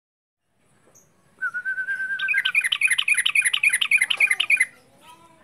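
Yellow-vented bulbul (trucuk) singing: a short, even trill, then a fast run of repeated chirping notes, about five a second, that stops abruptly about a second before the end.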